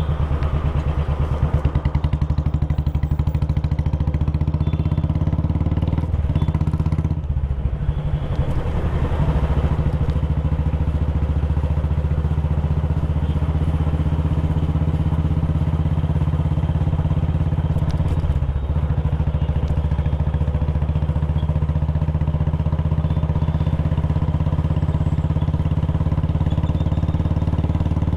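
Royal Enfield Classic 350's single-cylinder engine and exhaust running steadily while being ridden, with a brief dip in the engine note about seven seconds in and another, shorter one about eighteen seconds in.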